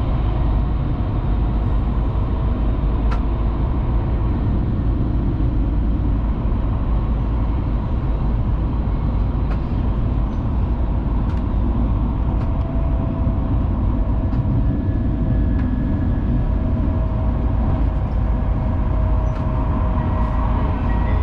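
Shinkansen bullet train running at speed, heard inside the passenger car: a steady low rumble with faint steady hums and a few light ticks.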